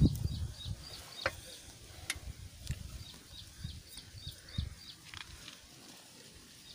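Faint outdoor background: a bird chirping over and over, with a few light clicks from parts being handled.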